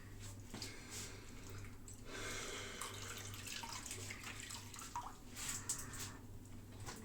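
Water running from a tap into a sink, with a few light knocks about five seconds in.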